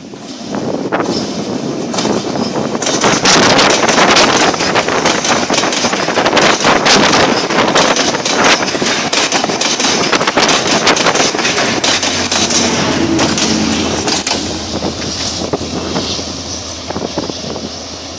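Sri Lanka Railways Class S13 diesel multiple unit passing close by at speed: rapid clatter of wheels over rail joints within a steady rush of noise, building as it draws level. A low steady hum joins about twelve seconds in, and the sound fades toward the end.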